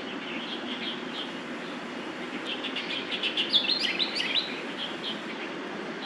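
Small birds chirping, with a quick run of high chirps and short falling notes about halfway through, over a steady low background rumble.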